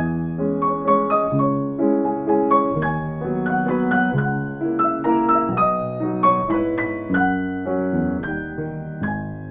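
Solo piano playing a calm, flowing piece: a steady stream of single struck notes over sustained lower chords.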